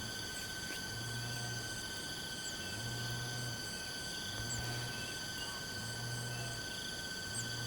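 Steady high-pitched drone of insects, with a low hum that pulses on and off about every second and a half.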